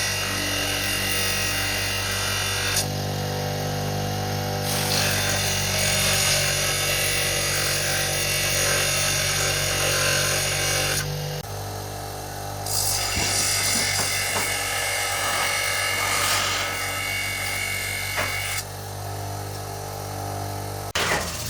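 Power tools running on wood, with a motor hum under the rasping of the cut or sanded surface. The sound changes abruptly several times as one tool or pass gives way to the next.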